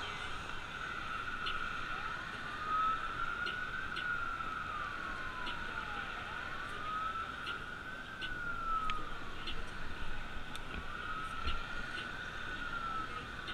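FDNY EMS ambulance siren on a slow wail, rising and falling in pitch about three times.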